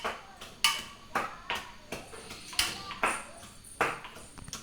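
Cooking utensils knocking and clinking against metal cookware: irregular sharp taps, some with a short ring, spaced about half a second to a second apart.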